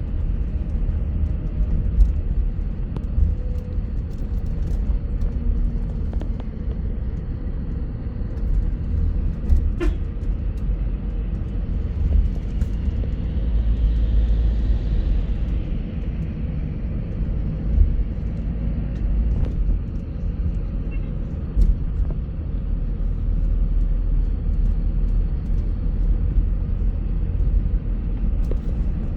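Steady low road and engine rumble of a bus on the move, with scattered short knocks and rattles. A higher hiss swells and fades about halfway through.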